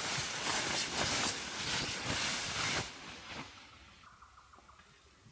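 A dense hissing noise with many small crackles and knocks, which dies away about three seconds in and leaves only a faint background.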